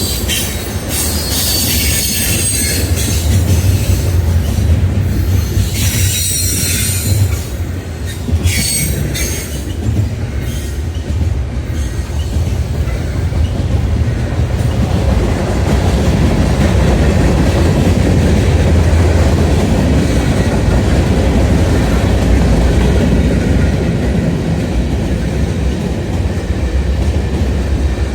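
Railroad cars rolling past on the track, with high-pitched wheel squeal in several short bursts during the first ten seconds. After that it settles into a steady, louder rumble of the passing train.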